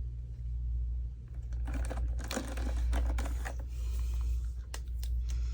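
Clicking and rustling of plastic markers being sorted through by hand, in a busy cluster about a second and a half in and a few sharp clicks near the end, over a steady low hum.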